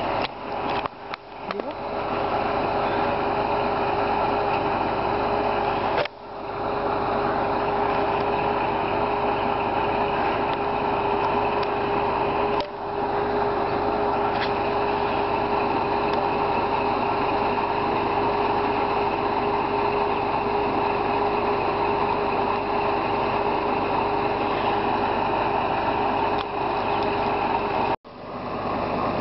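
Machinery running steadily with a constant mid-pitched whine over a dense mechanical noise, broken by short drops about 6, 13 and 28 seconds in.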